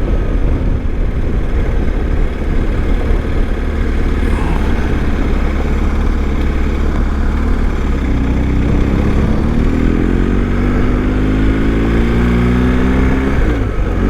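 BMW GS Adventure motorcycle engine running under way over a steady low rumble. About eight seconds in, the engine note rises steadily as the bike accelerates, dips briefly near the end, then climbs again.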